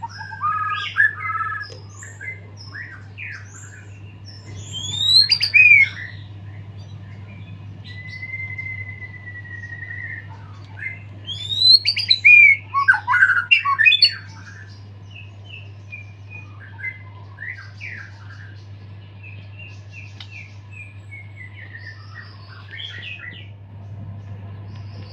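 White-rumped shama (murai batu) singing a varied song full of mimicked phrases, in full song after its moult. There are loud flurries about five and twelve seconds in and a long steady whistle around eight seconds in, over a steady low hum.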